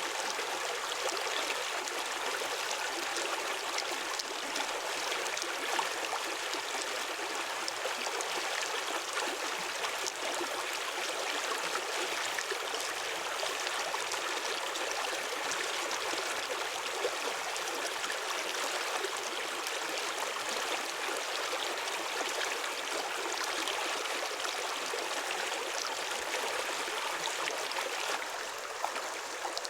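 Running water in a shallow stream: a steady rushing and trickling, with faint scattered clicks mixed in.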